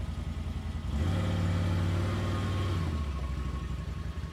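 An engine running steadily, growing louder with a held higher note for about two seconds starting about a second in, then settling back to its low hum.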